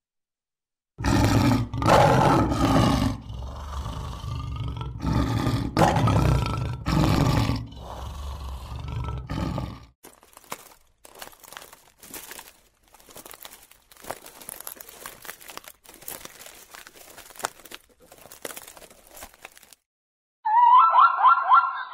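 Lion roaring: a string of loud, deep roars and grunts for about nine seconds. Quieter crunching and crackling follows, and near the end a rapid, high, wavering call starts.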